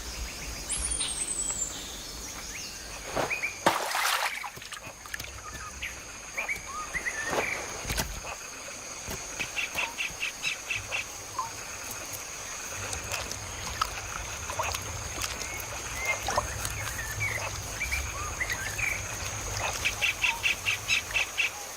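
Wild forest ambience: a steady high insect whine under scattered bird chirps and whistles, with two quick runs of repeated calls, one about ten seconds in and one near the end. A sharp knock sounds about four seconds in.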